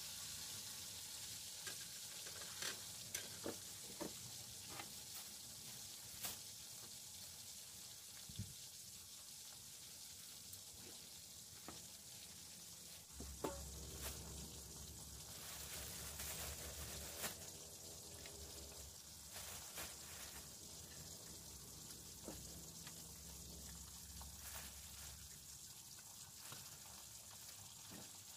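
Faint steady sizzling of food frying in a wok, with scattered light clicks and ticks.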